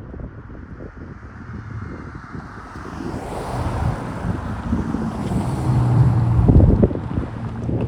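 Freight train passing at a grade crossing: steel wheels knocking and clattering over the rails. The sound grows louder, and a low steady engine drone peaks about six seconds in, with wind on the microphone.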